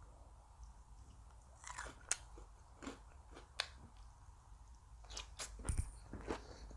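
Close-up chewing and biting of crisp food, with sharp crunches: a few scattered ones from about a second and a half in, then a denser run from about five seconds in.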